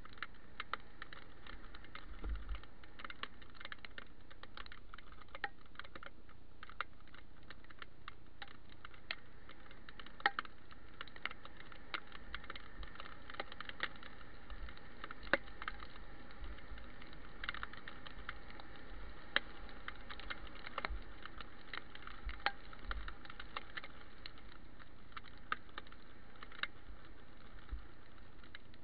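Raindrops tapping irregularly on a head-mounted camera's case, a few sharp ticks a second and some louder than others, over a steady hiss.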